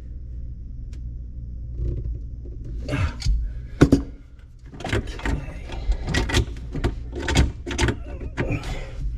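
Irregular clicks and knocks of drain fittings being handled and fitted under a kitchen sink, coming thickly in the second half, over a steady low hum.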